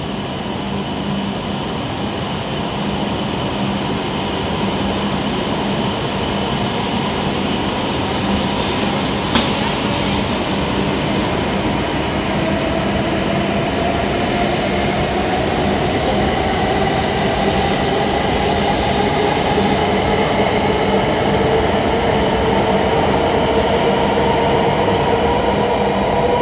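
E7 series Shinkansen departing from a station platform: the rush of the passing cars grows louder as it accelerates, and from about halfway through the traction motors add a whine that rises steadily in pitch. A single sharp click about nine seconds in.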